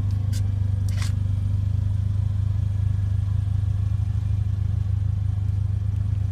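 Steady low drone of an idling engine, the 2.0-litre turbocharged four-cylinder of a Mercedes-AMG GLA 45, with two light clicks about half a second and a second in.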